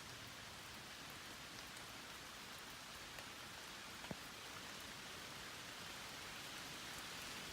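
Steady rain falling, a faint even hiss, with a couple of single drops ticking about three and four seconds in.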